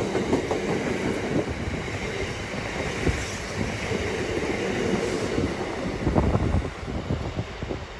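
Freight train wagons rolling through at speed behind a Class 66 diesel, their wheels clattering over the rail joints with a steady rumble. The clatter grows louder about six seconds in.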